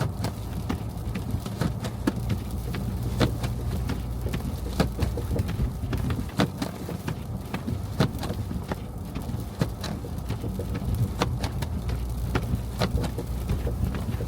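Car driving on snowy city streets: a steady low rumble with scattered, irregular sharp ticks and clicks.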